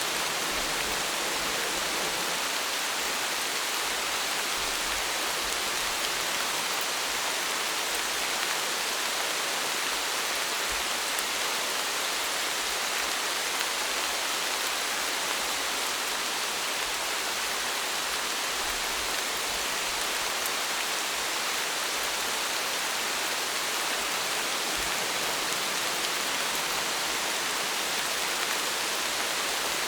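Steady rain falling, an even hiss with no distinct drops, thunder or other events standing out.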